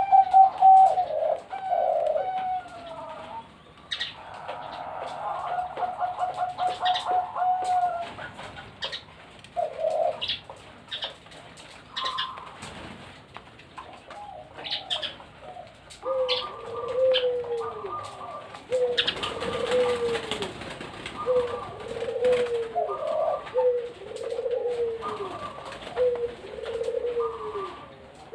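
Zebra doves (perkutut) cooing: a fast run of staccato notes, then a repeated phrase of curved, falling coos about once a second. A brief burst of rustling noise comes about two-thirds of the way through.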